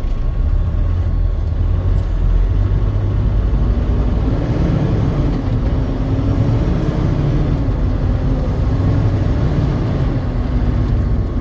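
Truck running: a steady, loud low engine and road rumble, with a faint wavering tone through the middle.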